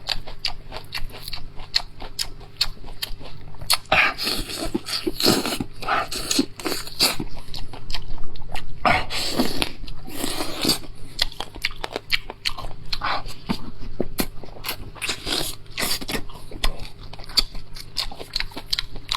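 A person chewing and biting into braised lamb chops, a steady run of short eating clicks with a few longer stretches of chewing noise.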